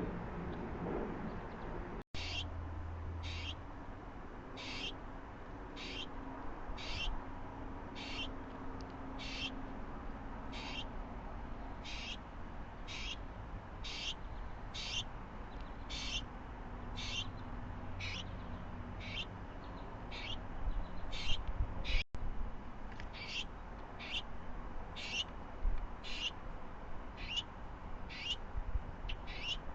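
A bird repeating a short, high call about once a second in a steady, even series that starts about two seconds in.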